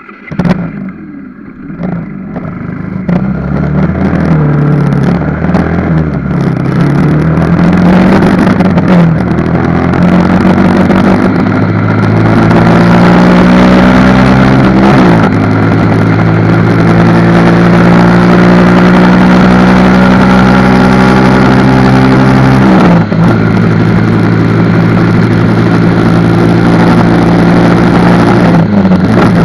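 Motorcycle engine running on a ride, sped up to four times normal speed; the engine note climbs in pitch, then drops sharply as the rider shifts gear, three times, over steady wind and road noise. The sound starts suddenly, right at the beginning, out of near silence.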